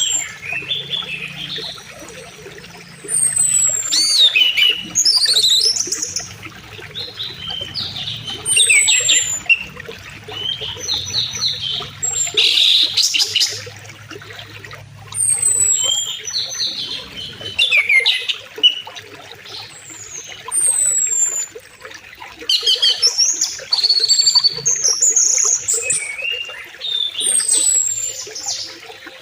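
Songbirds singing in short bursts of quick falling whistles and chirps, one burst every few seconds, over a faint steady rush of flowing river water.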